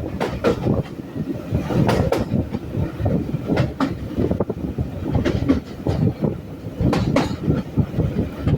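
Train running along the track, its wheels clattering over rail joints with a rumble and frequent irregular knocks.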